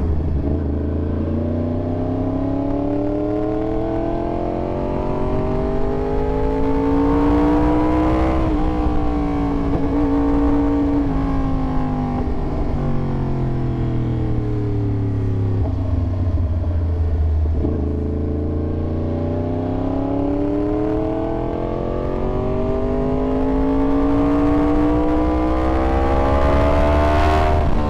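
Yamaha YZF-R1 inline-four engine under way, its pitch climbing slowly as the bike pulls through the revs. About eight seconds in the pitch breaks and drops back, then sags until it jumps again around fifteen seconds and climbs once more, with another break a couple of seconds later. A steady low rumble runs underneath.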